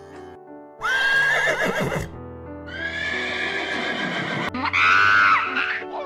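Horse whinnying over background music: a wavering call about a second in and a louder, falling call near the end.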